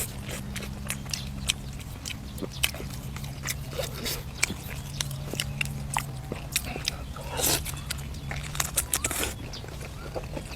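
Close-up eating sounds of a person biting and chewing braised duck meat: a run of wet, irregular mouth clicks and smacks.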